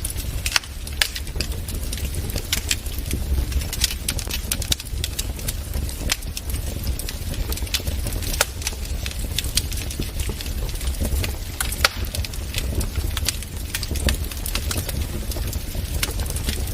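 Wood fire crackling in a fireplace: irregular sharp pops and snaps of burning logs over a steady low rumble of the flames.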